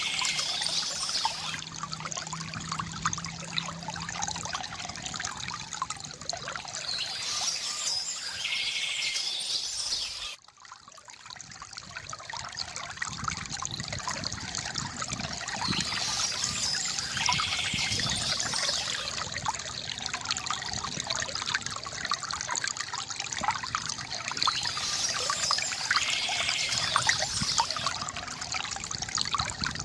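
Water from a bamboo fountain trickling and pouring steadily, with birds chirping at intervals, about every nine seconds. The water sound drops out abruptly for a moment about ten seconds in, then returns.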